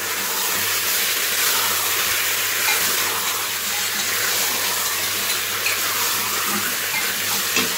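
Raw chicken pieces and potato chunks frying in hot oil in a steel pot: a steady sizzling hiss, with a spatula stirring and scraping against the pot now and then.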